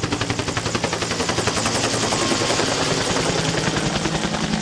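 UH-1 Huey helicopter's two-bladed main rotor beating in a rapid, even wop-wop of about ten beats a second, over a steady rushing hiss from the turbine and rotor wash.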